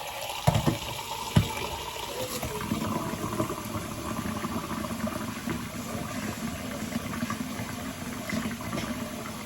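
Liquid running steadily into a container, after a few sharp knocks in the first second and a half.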